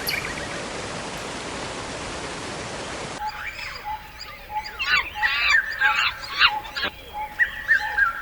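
A steady rushing noise for about three seconds cuts off suddenly to tropical forest ambience. Birds call in quick chirping phrases over a faint steady tone, and a short falling note repeats near the end.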